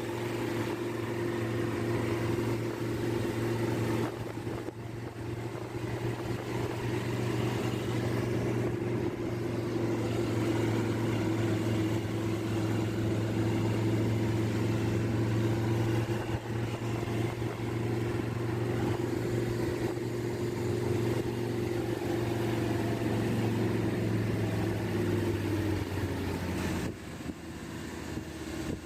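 A car driving at a steady speed: a steady low engine drone with road noise that drops in level near the end.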